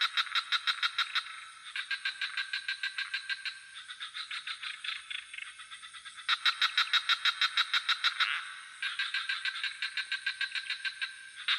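Frogs calling in rapid pulsed trills of about seven pulses a second, in bouts of around two seconds, louder and softer callers taking turns. A steady high-pitched insect chorus, typical of crickets, runs underneath.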